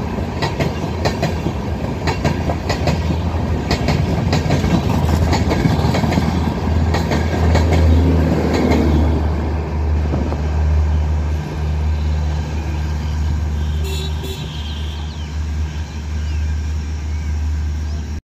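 Passenger train running past at speed, its wheels clicking in a regular rhythm over rail joints over a heavy low rumble. The clicks fade after about nine seconds, leaving a steadier rumble that cuts off abruptly at the very end.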